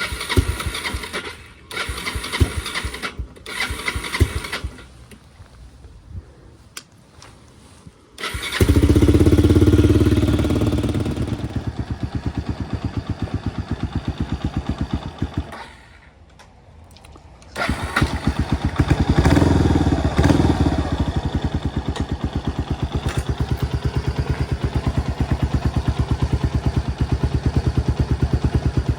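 Kawasaki 250TR's single-cylinder four-stroke engine being started. After a few short attempts it catches about eight seconds in, runs loudly at first, then dies about seven seconds later. It is started again and settles into a steady idle with distinct, even firing beats. The stall fits the bike's stalling fault, which the owner traced to a dirty carburetor.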